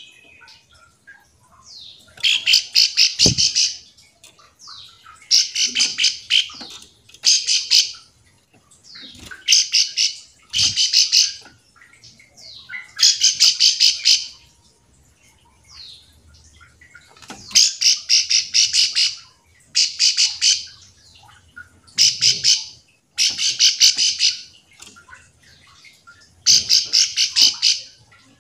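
Ciblek sawah (a prinia) giving its call: about ten bursts of rapid, high, rattling notes, each lasting a second or so, repeated after short pauses. This is the calling used to draw other ciwah into answering.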